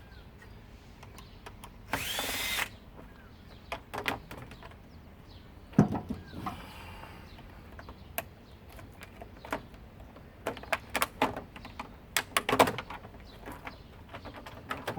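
Power drill run briefly about two seconds in, its whine rising as it spins up, followed by scattered clicks and knocks, thickest near the end.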